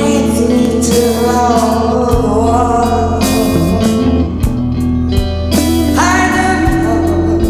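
A song: a sung melody with long, wavering held notes over guitar, a steady bass line and regular drum hits.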